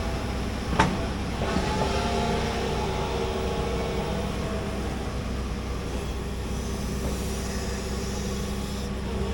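Large hydraulic excavator running under load while digging, a steady engine drone with a hydraulic whine, and one sharp metallic clank about a second in.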